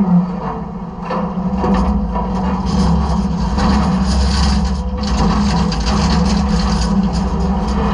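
Inside a side-loader garbage truck's hopper: the truck's engine and hydraulics run with a steady low drone while trash and debris crackle, rattle and crunch. It opens with a short knock, and the crunching is thickest in the middle, as the load is handled and compacted.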